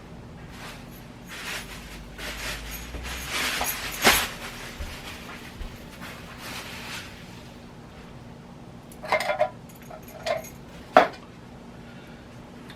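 Kitchen handling noises: rustling and a sharp knock, then a few short metallic clinks of emptied bean cans being handled.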